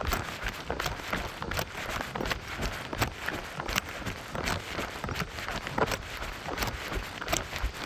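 A runner's footsteps at a steady jogging pace, about two to three footfalls a second.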